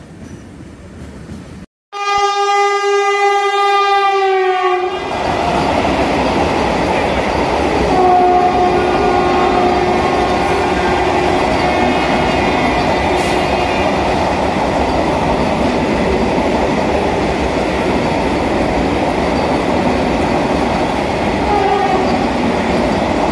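Vande Bharat Express trainset sounding one long horn blast of about three seconds, its pitch sagging slightly. It then runs past with a steady rush of wheels on rail and coach noise.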